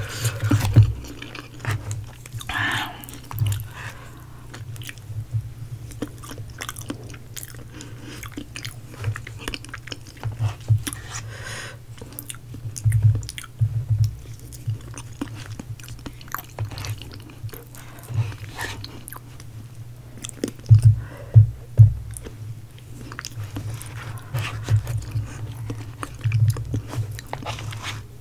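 Close-miked chewing and biting of fast-food fried chicken and sides, with irregular crunches, wet mouth sounds and small clicks, as in ASMR eating sounds.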